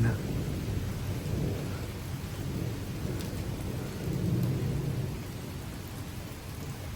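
Heavy thunderstorm rain pouring steadily under a low rumble, which swells about four seconds in and then eases.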